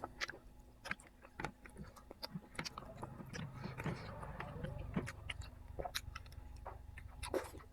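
A person chewing and biting food close to the microphone, quiet, with many small scattered mouth clicks and smacks.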